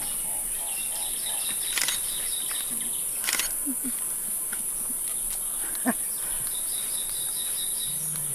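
Outdoor ambience: a steady high hiss with stretches of faint, rapid, repeated chirping and a few soft clicks.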